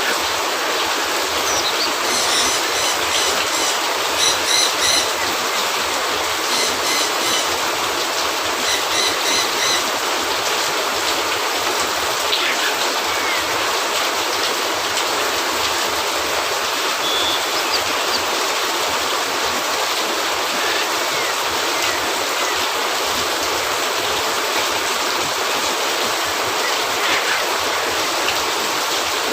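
Rain falling steadily, a dense even hiss. In the first third, several short runs of rapid, evenly spaced high ticks sound over it.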